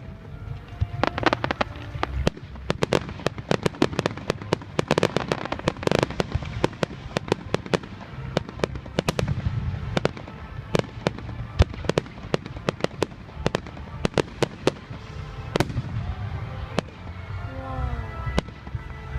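Fireworks display: rapid, dense bangs and cracks from exploding aerial shells, heaviest in the first several seconds, then more spaced out.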